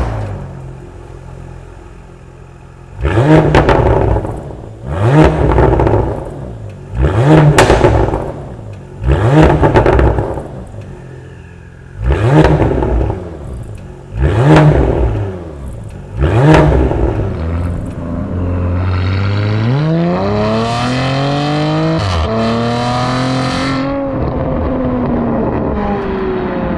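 Porsche Panamera E-Hybrid engine through an Akrapovic titanium slip-on exhaust with the secondary catalytic converters deleted. A loud burst at the very start settles to idle, then seven sharp throttle blips about two seconds apart, each rising and falling. Then a long pull with the engine note climbing, a brief break as it shifts, and a steady run.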